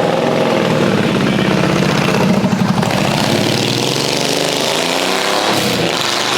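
A motor vehicle engine running close by, its pitch drifting up and down a little.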